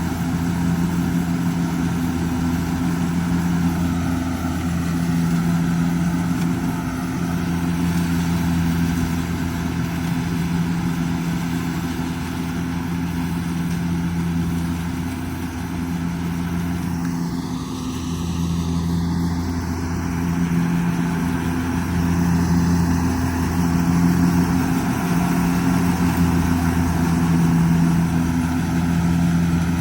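Kubota DC70G Plus combine harvester's diesel engine running steadily, a constant low hum.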